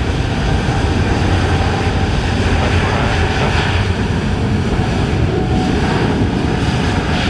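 Jet airliner engines running loud and steady: a deep rumble with a faint whine.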